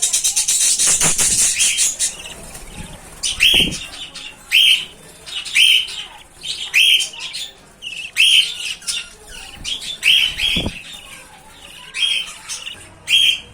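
Budgerigar chicks calling: short raspy chirps repeated about once a second. It opens with about two seconds of rapid fluttering, and there are two brief low knocks, one a few seconds in and one near the end.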